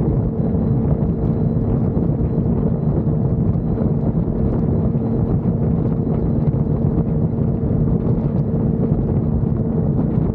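Suzuki GSX-R600's inline-four engine running at a steady speed while riding, with wind rushing over the microphone.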